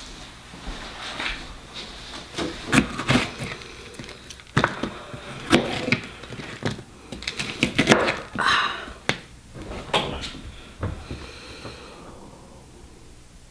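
Knife chopping vegetables on a cutting board: irregular, sharp strokes spaced about half a second to a second apart, with some scraping, stopping about twelve seconds in.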